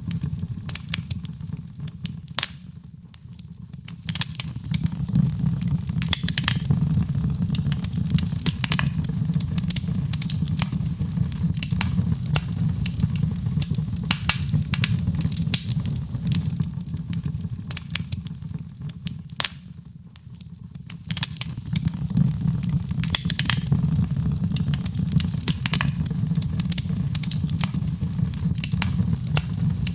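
Wood fire crackling, with frequent sharp pops and snaps over a steady low rumble. The crackling thins out briefly twice, about three seconds in and again around twenty seconds.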